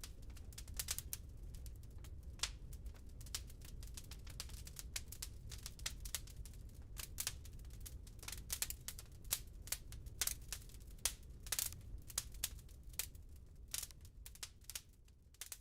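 Wood fire in a fireplace crackling: irregular sharp pops and snaps from the burning logs over a low, steady rumble of the flames.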